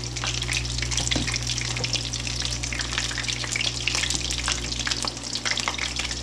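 Beer-battered burbot pieces frying in hot oil in a skillet: a steady, dense crackling sizzle, over a low steady hum.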